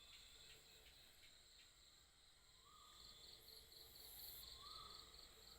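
Faint crickets chirping in an even pulsing rhythm, about three chirps a second, with two or three short faint tones over them.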